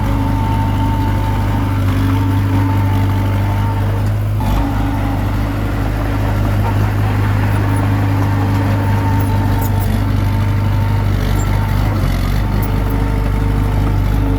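Komatsu D21P bulldozer's diesel engine running steadily at working speed, with a brief break about four seconds in.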